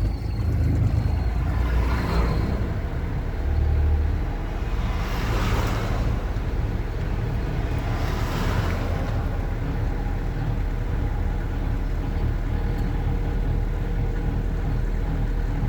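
Manual car driving in second gear after accelerating, heard from inside the cabin: a steady low engine and road rumble, with a few swells of louder rushing noise.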